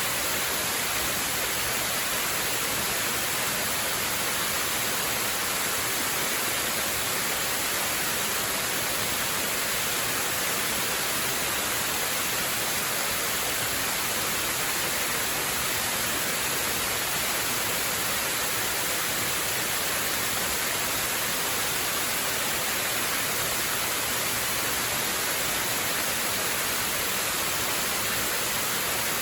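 Waterfall rushing in a steady, unbroken hiss, with no change in level.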